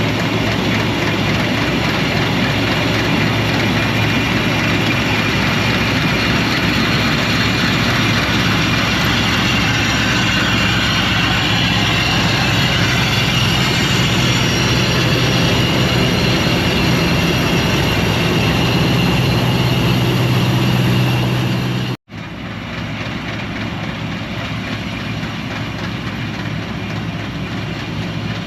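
Combine harvester running steadily under load while threshing wheat: a continuous engine and machinery drone. It cuts out for an instant about three-quarters of the way through, then carries on a little quieter.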